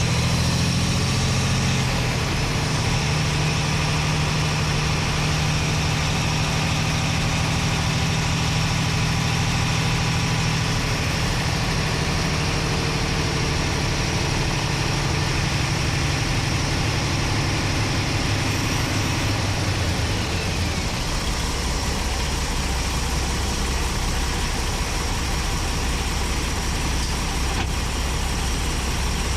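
Paccar MX-13 inline-six diesel truck engine running steadily, heard from within the engine bay. About two-thirds of the way through, its note drops to a lower pitch as the engine slows.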